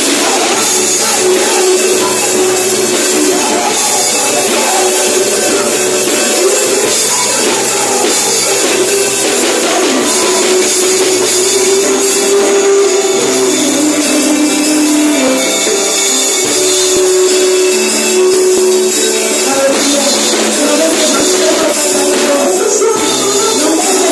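Worship band music with a tambourine shaking along and long held notes, continuous throughout; the bass is thin.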